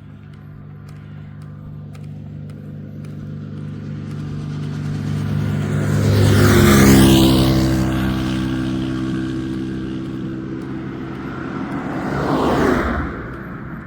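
A motor vehicle's engine grows louder as it approaches, passes close by about seven seconds in, and drops in pitch as it moves away; a second vehicle passes quickly near the end.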